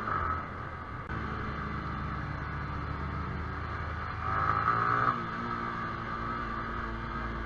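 Yamaha YZF-R15 motorcycle riding along, with a steady engine drone under a rush of wind. It swells briefly about four seconds in with a falling whine.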